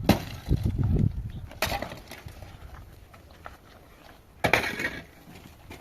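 Three sharp impacts: one right at the start, one about a second and a half in, and one about four and a half seconds in, each ringing on briefly.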